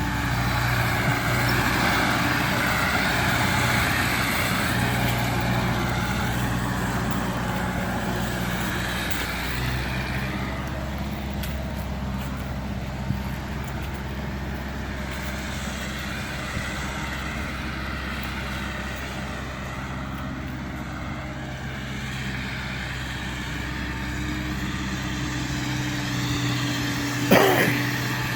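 1942 Ford 9N tractor's four-cylinder flathead engine running steadily, now firing on all cylinders with its ignition points freshly set. Near the end comes a brief, loud rising squeal.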